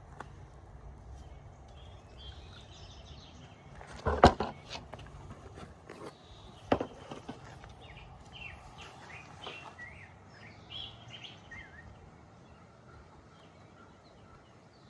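Birds chirping and peeping in short high calls over a low outdoor background, with a loud sudden sound about four seconds in and a shorter, sharper one near seven seconds.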